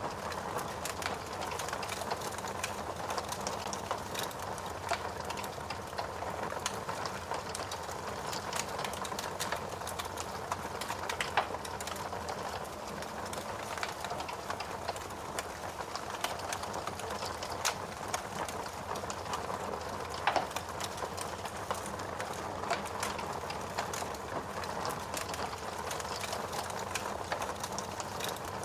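Steady rain hiss mixed with a crackling wood fire: irregular sharp pops and snaps throughout, with a few louder cracks about eleven and twenty seconds in.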